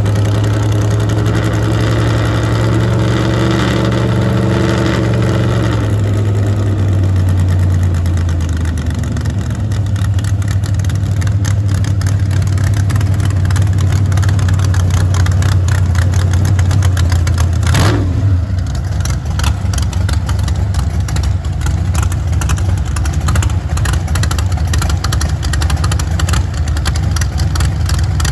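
Car engine running at a steady idle after a hard start, its tone shifting about six to nine seconds in, with one sharp crack about eighteen seconds in.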